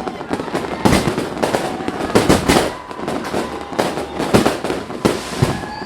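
New Year's Eve fireworks and firecrackers going off, a rapid, irregular string of sharp bangs and crackles.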